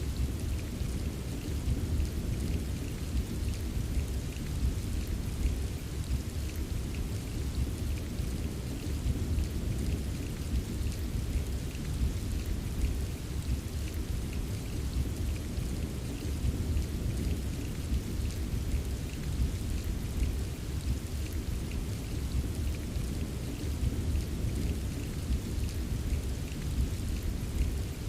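Steady rain with many small drop taps over a continuous low rumble, with no distinct thunderclap.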